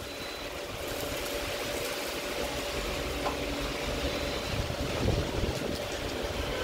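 Steady hiss of heavy rain, with cars driving through water on the wet road below.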